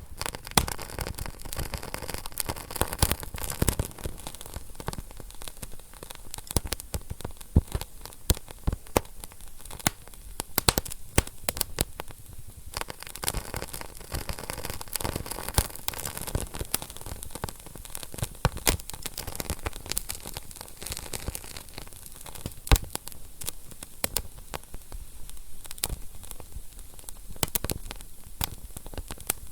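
Wood fire crackling in a fireplace: dense, irregular sharp pops and snaps over a soft hiss of burning.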